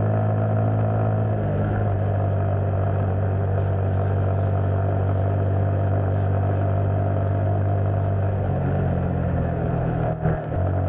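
Motorcycle engine running steadily at cruising speed, heard from on the bike, with a slight change in engine pitch about a second and a half in and again near the end, and a brief dip in level just before the end.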